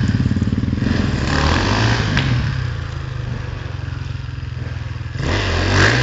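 Enduro dirt bike's engine running at low revs from a distance, a steady pulsing drone, then picking up sharply in loudness about five seconds in as the throttle opens.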